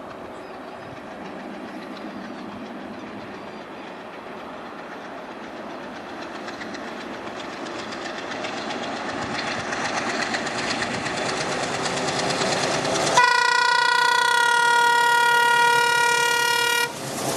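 An approaching ALCO WDM3A diesel locomotive and its train, the running noise growing steadily louder; about thirteen seconds in, the locomotive sounds its horn in one long, steady, loud blast that stops just before the end.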